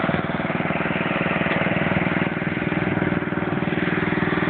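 Tractor engine running steadily with a rapid, even firing beat.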